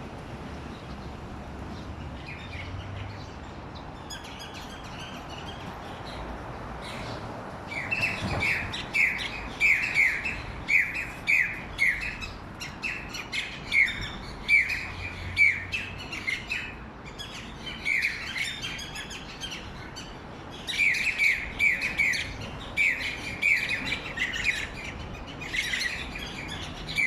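Birds chirping: faint at first, then from about eight seconds in, bouts of quick, short, high chirps, several a second, with a couple of brief pauses.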